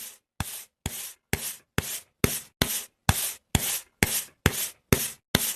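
Rhythmic scraping strokes, about two a second, each beginning with a click and trailing off as a short rasp, like sanding or rubbing on wood.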